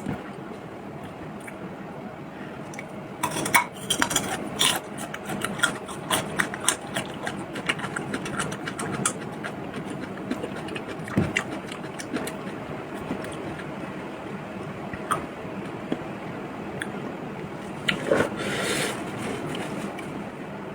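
Eating sounds: quick clicks and clatters of utensils against dishes, thick for several seconds a few seconds in and again near the end, over a steady background hiss.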